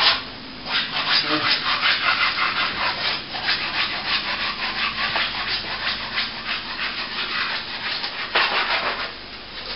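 A plastering tool scraping on plaster in quick, rhythmic strokes, about three a second.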